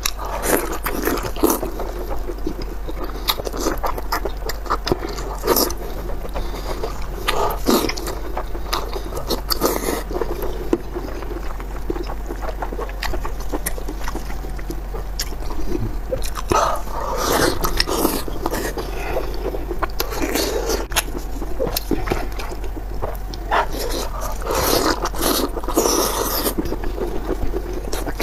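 Close-miked wet chewing, slurping and mouth smacks as a person bites into and eats a soft, sauce-coated piece of cooked offal, in irregular clusters of sticky clicks, over a steady low electrical hum.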